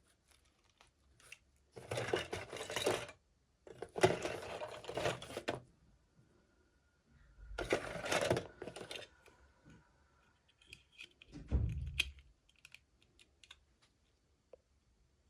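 Toy packaging being opened by hand: three bursts of rustling and tearing, light clicks and taps between them, and a dull thump about twelve seconds in.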